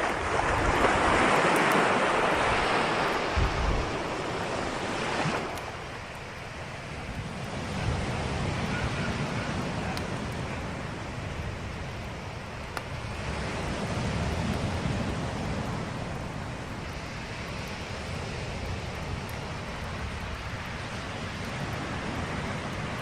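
Sea waves breaking and washing on a shore. The loudest surge comes first and dies away about five seconds in, and weaker swells follow every several seconds.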